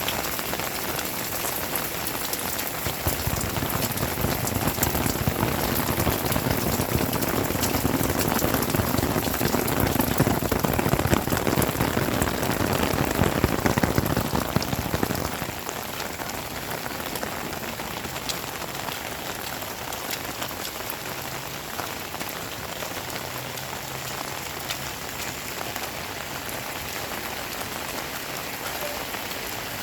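Heavy rain pouring down steadily. About three seconds in it grows louder and fuller, then drops back abruptly about fifteen seconds in.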